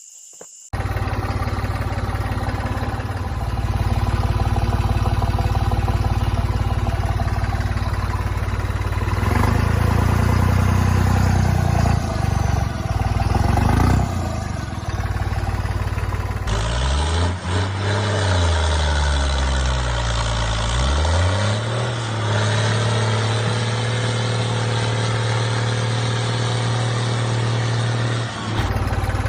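Small engine running steadily, revving up and down a few times about two-thirds of the way through, then settling back to a steady run.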